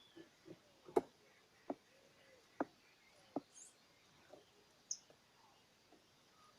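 Sharp, irregular taps or clicks, several seconds apart, with a few faint, short, high bird chirps between them.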